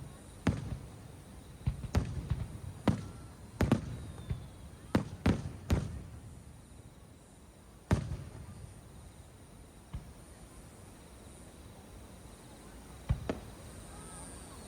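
Aerial fireworks shells bursting, each a sharp bang with a low rumbling tail. About ten bangs come in quick, irregular succession over the first six seconds, then single bursts follow about eight seconds in and a couple more near the end.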